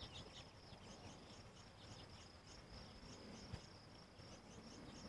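Faint cricket chirping, a high rhythmic pulse repeating about four times a second.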